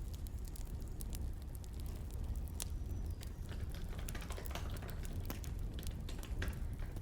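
Firewood crackling, irregular sharp pops over a steady low rumble, mixed with runs of keyboard typing clicks, densest in the middle.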